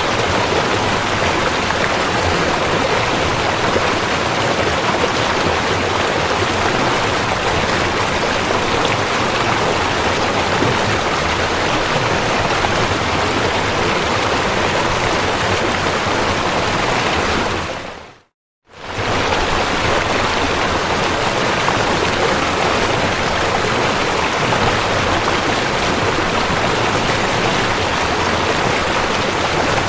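Rushing river: a loud, steady rush of flowing water. Just past the middle it fades out to silence for about half a second, then resumes at full strength.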